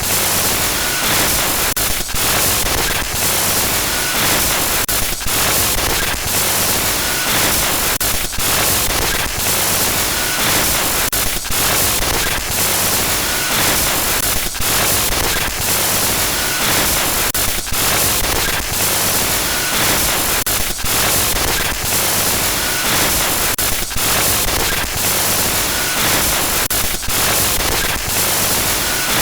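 Loud hissing static, a synthetic glitch noise, broken every second or so by brief dropouts and clicks.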